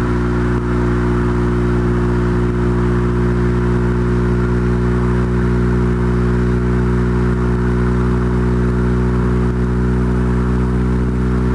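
Integra GSR's 1.8-litre DOHC VTEC four-cylinder, fitted with Integra Type R camshafts and exhaust, running at a steady engine speed while driving: a constant, unchanging drone.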